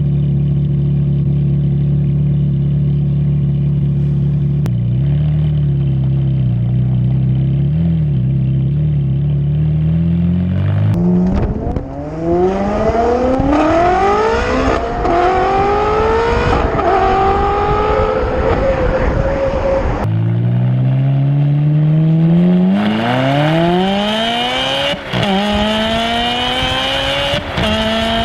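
Ferrari V8 engine cruising at steady, moderate revs. Then, from about eleven seconds in, it is pulling hard through the gears: the engine note climbs again and again, dropping briefly at each upshift.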